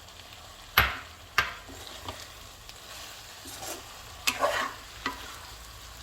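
Chicken and soaked soya chunks frying in oil in a kadai while being stirred: a low sizzle throughout, two sharp knocks of the stirring utensil on the pan about a second in, and scraping strokes later on.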